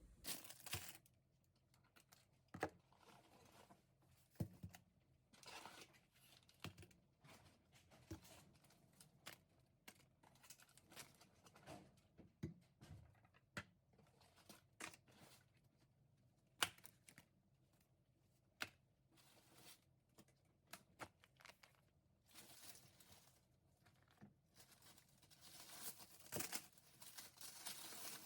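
Quiet, intermittent handling sounds: rustling and tearing, with scattered light clicks and taps, busier near the end.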